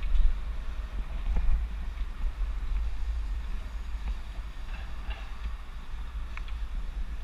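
Wind buffeting the microphone of a GoPro mounted on a moving bicycle: a steady low rumble over a hiss of riding noise, with a few faint ticks.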